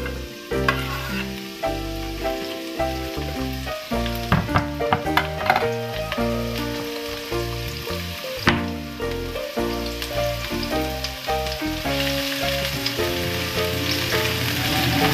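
Chopped garlic and shallots sizzling in hot oil in a wok, with a wooden spatula clicking and scraping against the pan as they are stirred. The sizzle grows louder near the end. Background instrumental music with changing held notes plays throughout.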